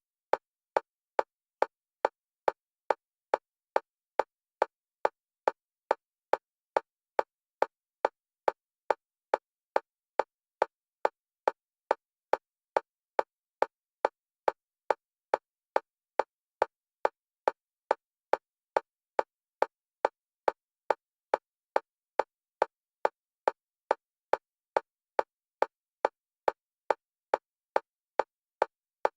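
Electronic metronome clicks for EMDR bilateral stimulation, a fast, perfectly even stream of short, identical clicks that alternate between the left and right channels.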